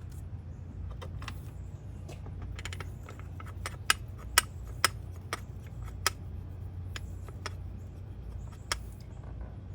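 Metal tools and bolts clinking as they are handled, with a few sharp clicks about halfway through, over a steady low hum.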